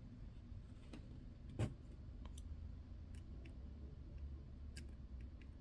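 A few small, sharp clicks of a watchmaker's screwdriver and tweezers on a watch movement while working at a stuck screw, the loudest about one and a half seconds in, over a low steady hum.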